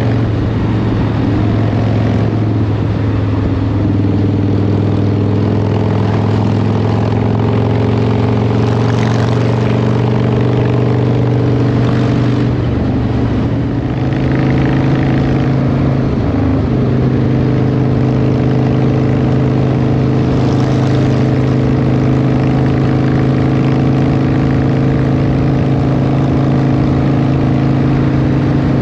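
Cruiser motorcycle engine running steadily at highway speed, heard from the rider's seat with wind rush. The engine note shifts briefly about halfway through, then settles into the same steady drone.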